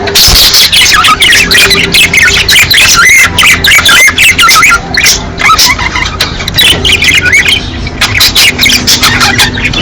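A flock of budgerigars chattering and warbling in breeding-season calls: a loud, unbroken stream of rapid chirps and short squawks.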